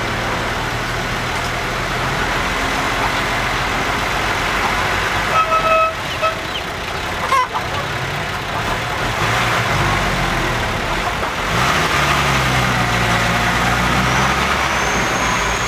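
Six-wheel dump truck's diesel engine running and revving up and down, with two short horn toots about five seconds in.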